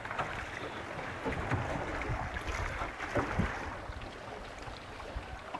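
A boat under way on a river: a steady wash of water and low rumble, with wind buffeting the microphone and a few small knocks.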